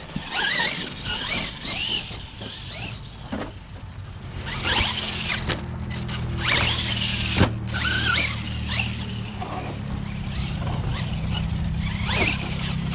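Electric motors of radio-controlled brushless monster trucks whining up and down in pitch as they accelerate and brake, with a few sharp clicks. A steady low hum joins about four seconds in.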